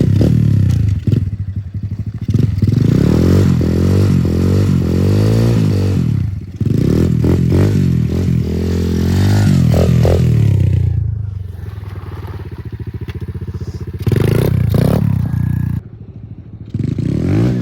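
Small semi-automatic dirt bike engine being ridden, its revs climbing and falling several times as it pulls through the gears. It eases off to a quieter running for a few seconds, then revs up hard again near the end.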